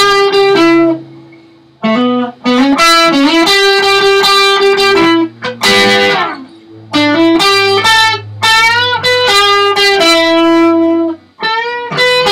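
Electric guitar playing short rock lead phrases, with notes bent up in pitch against held notes on the next string, in several bursts with brief gaps between them.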